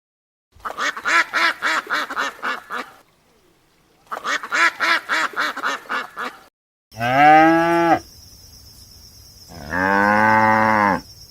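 Two runs of rapid duck quacks, about six a second, followed by a cow mooing twice, each moo a second or so long.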